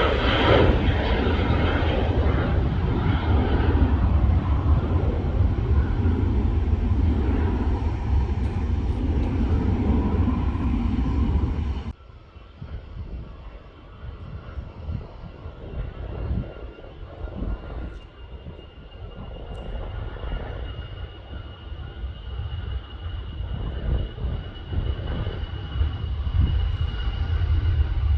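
Jet airliner engines at take-off power, a loud, steady rumble. About twelve seconds in it cuts suddenly to a second, more distant jet airliner whose engine noise, with a thin steady whine, slowly builds as it begins its take-off.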